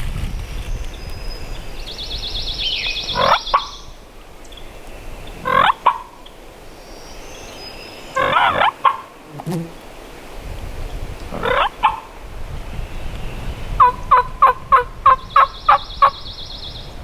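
Wild turkey gobbler gobbling four times, a few seconds apart, then a quick run of about nine evenly spaced turkey yelps near the end. A high trilling songbird comes in twice, over a low rush of wind.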